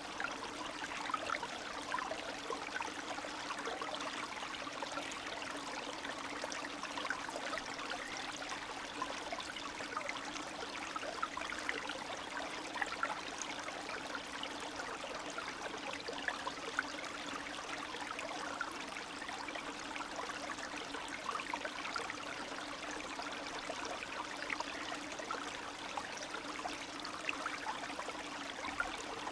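Spring stream running steadily, water gurgling and splashing over stones in a continuous babble dotted with small quick splashes.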